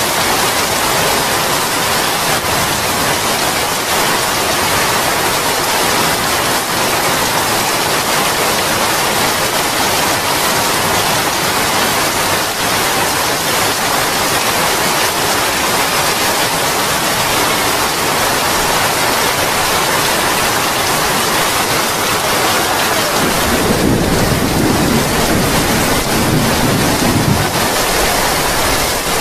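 Heavy rain falling steadily on sand, palm fronds and a wooden deck, with a low rumble of thunder for a few seconds near the end.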